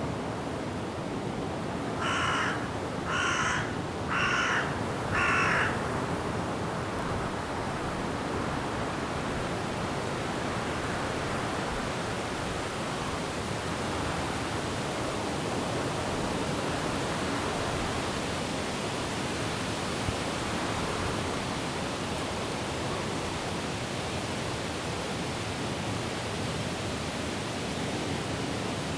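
A crow gives four harsh caws about a second apart, a couple of seconds in, over the steady rush of wind and rain in the trees.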